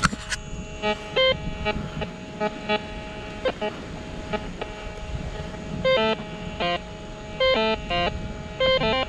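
Metal detector in beach mode giving short electronic beeps that jump between two or three pitches, in quick clusters over a faint steady tone, with the strongest bursts in the second half. These are target signals, which the detectorist takes to be probably a buried pipe.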